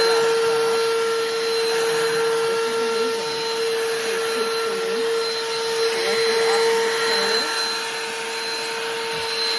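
BLACK+DECKER 20V Dustbuster cordless handheld vacuum running: a steady motor whine, one constant tone with higher overtones, over the rush of drawn-in air.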